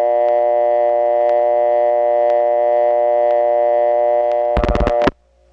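Telephone dial tone from a step-by-step central office, heard over the phone line as a steady buzzy tone with a faint tick about once a second. Near the end a quick burst of rotary dial pulses breaks it and it cuts off, leaving a low hum.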